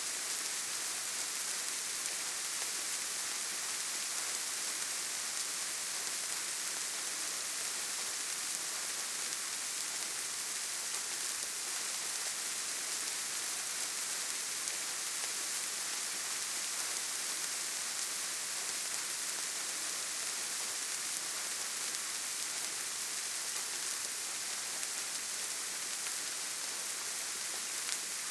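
Steady rainfall, an even hiss that is brightest in the high range, with no single drops, thunder or other events standing out.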